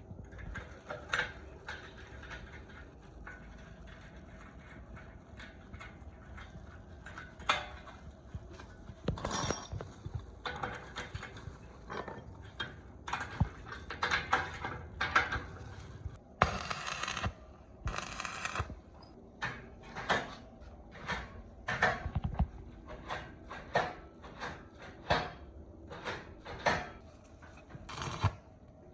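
Intermittent clatter of hard objects, sharp clicks and knocks at irregular intervals, with two short bursts of denser noise a little past the middle.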